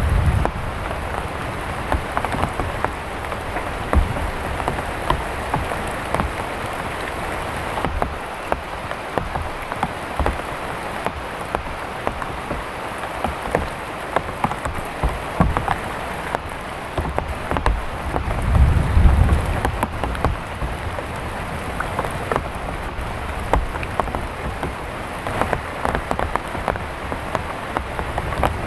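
Heavy rain falling steadily, with many close drops striking a surface. A low rumble swells and fades about nineteen seconds in.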